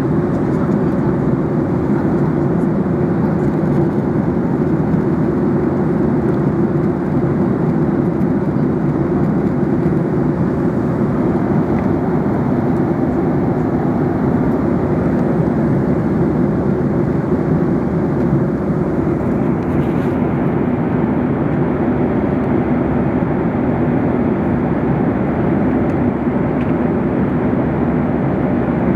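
Steady in-flight airliner cabin noise: an even rumble of the jet engines and the airflow over the fuselage, heard from inside the cabin. The faint high hiss on top of it drops away about two-thirds of the way through.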